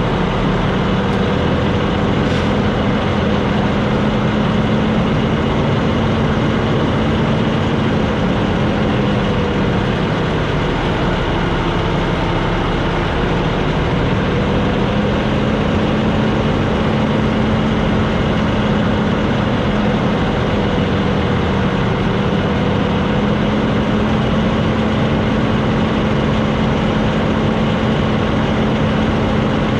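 Heavy truck's diesel engine running as a steady, loud drone, its pitch dipping slightly a couple of times.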